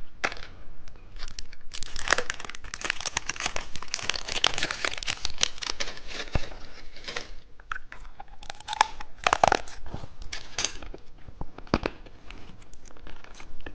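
Candy packaging being torn open and crinkled by hand: a run of crackles and rustles with sharp snaps now and then, strongest about two-thirds of the way through.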